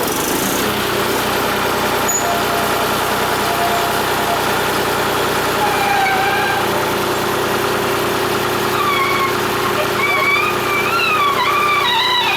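Tractor diesel engine running steadily under load while it drives the telescopic loader's hydraulics to raise and extend the arm. High wavering calls sound over it in the second half.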